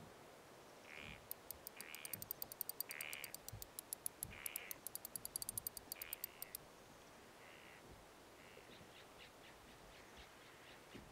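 A bird calling repeatedly in short calls about a second apart, with a rapid high ticking over the first half that thins out and returns faintly near the end.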